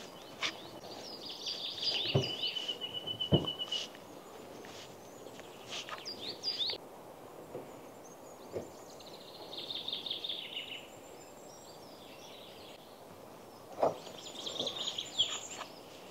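Songbirds singing: a rapid trill, short chirps and warbling phrases at intervals. A few soft knocks come in between.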